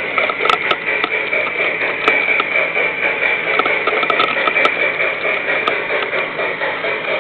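Bachmann G-scale model locomotive running along the track: a steady whirring motor and gear noise with scattered sharp clicks from the wheels on the rails.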